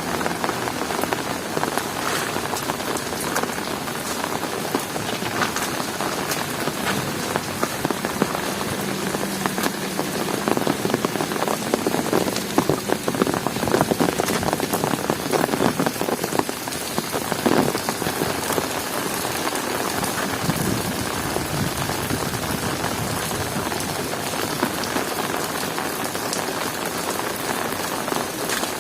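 Heavy rain falling in a dense, steady patter of drops, growing louder for several seconds in the middle.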